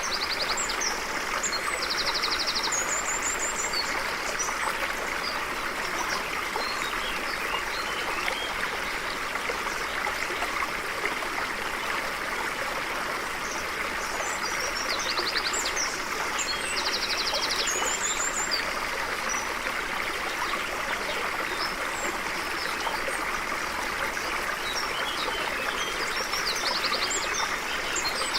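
Stream flowing steadily, with small birds calling over it: short trills and quick high chirps come in small clusters near the start, in the middle and at the end.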